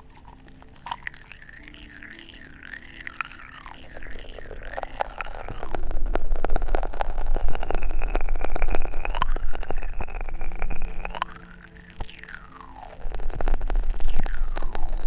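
Close-miked popping candy crackling in the mouth: dense fizzing crackles with a hollow tone that sweeps up and down. The crackling grows louder about six seconds in, eases near eleven seconds, and is loud again from about thirteen seconds.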